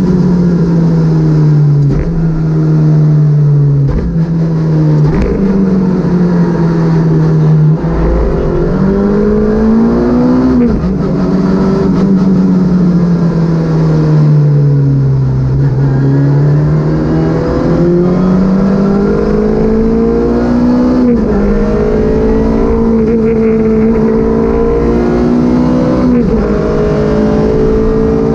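Citroën Saxo VTS rally car's 1.6-litre 16-valve four-cylinder engine revving hard through the gears, its pitch climbing and then dropping sharply at each upshift, about three times. In the middle the revs fall away slowly for several seconds as the car slows, with a few short knocks early on.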